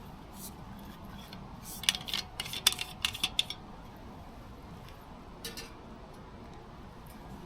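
A quick run of light metallic clinks and taps, small metal objects knocking together, lasting about a second and a half from about two seconds in, with one more faint click later.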